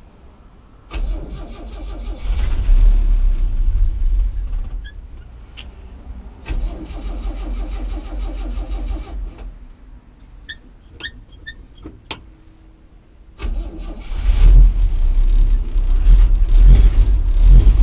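The 230 cubic-inch inline-six of a 1964 Chevy C10 being started repeatedly: it catches and runs loud and rough about a second in, fades out, starts again around six seconds in and dies, then fires up loudly once more near the end. The engine is misfiring and keeps cutting out on its own.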